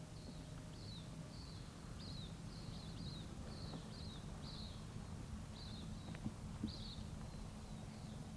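A bird calling over and over with short, high chirps that fall in pitch, about one or two a second, over a faint low rumble.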